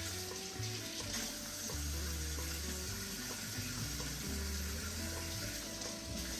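Background music with a bass line that changes note every second or so, over the steady hiss of chicken sizzling in a pan with a little water.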